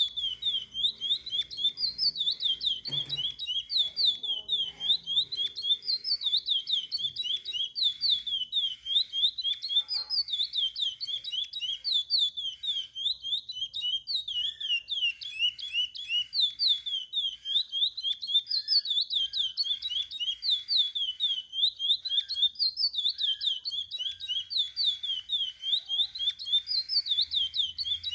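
Curió (chestnut-bellied seed finch) singing a continuous song of rapid, clear whistled notes, phrase after phrase with only short pauses between them.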